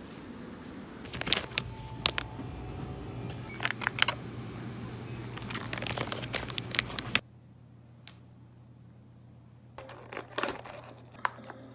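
Crinkling and rustling with scattered sharp clicks and knocks of things being handled. About seven seconds in the background noise cuts off abruptly, and a few fainter clicks follow.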